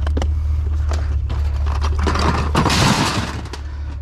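A loud crash and clatter, as of hard objects dropped or breaking, lasting about a second from a little after two seconds in. A steady low hum runs underneath and drops away as the crash hits.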